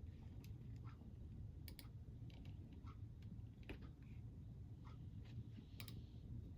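Crunchy snack being chewed: faint, irregular crisp clicks over a low steady rumble.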